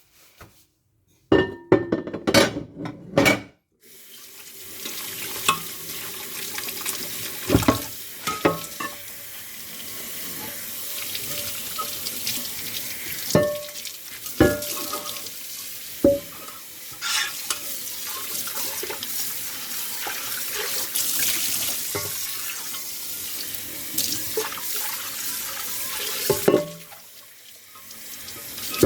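Dishes being washed by hand at a kitchen sink: dishes clatter a few seconds in, then the tap runs into the sink, with scattered clinks and knocks of dishes against each other. The water stops shortly before the end.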